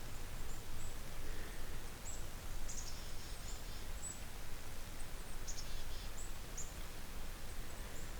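Small birds calling in woodland: scattered short, high chirps, with two brief buzzy trills about three and six seconds in, over a steady low background rumble.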